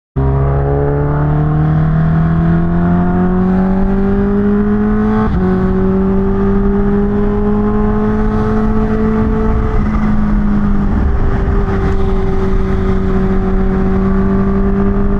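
Kawasaki Ninja H2's supercharged inline-four pulling under way. Its pitch climbs for about five seconds, drops sharply at an upshift, then holds nearly steady, with a low rushing noise underneath.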